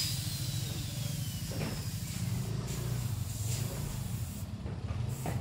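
Truck engine idling with a steady low rumble, with a few faint knocks over it.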